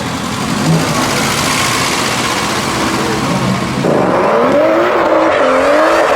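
Cars at a meet: a loud rush of engine and tyre noise, then about four seconds in a pitched squeal starts, wavering up and down over and over, like tyres squealing under wheelspin.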